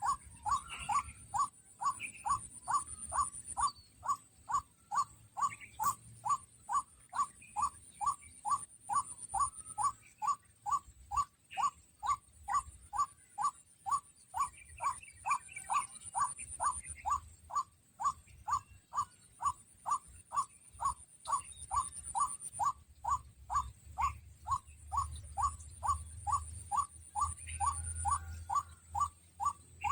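White-breasted waterhen's call, short notes repeated evenly about twice a second without a break.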